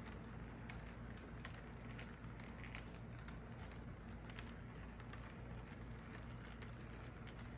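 Model train running: a steady low hum with light, irregular clicks several times a second.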